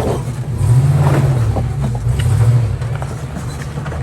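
Jeep CJ7 engine running, a steady low drone that swells about a second in and again around two and a half seconds, with a few light clicks over it.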